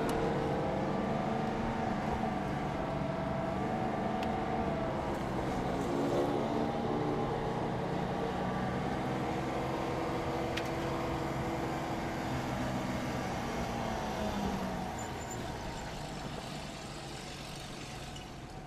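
Porsche engine running hard at a steady pitch, heard from inside the car at speed with tyre and road noise underneath. It eases off over the last few seconds as the sound gets quieter.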